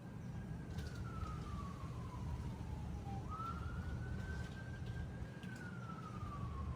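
Emergency-vehicle siren wailing, each cycle rising quickly in pitch and then sliding slowly down, about every three seconds, over a steady low rumble.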